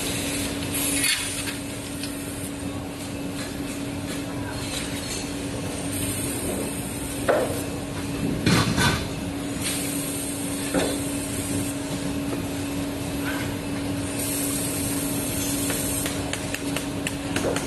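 Industrial machine running with a steady hum, occasional sharp metallic knocks and spells of high hiss.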